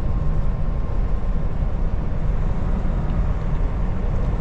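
Steady low rumble of a Kenworth T680 semi truck's engine and road noise heard inside the cab while driving.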